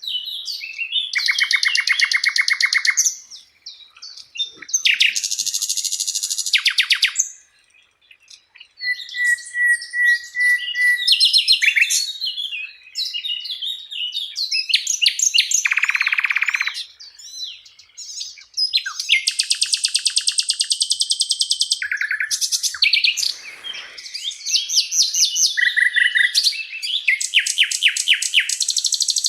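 Sikatan londo flycatcher singing: phrase after phrase of rapid, rattling trills and fast repeated high notes, with short pauses between phrases.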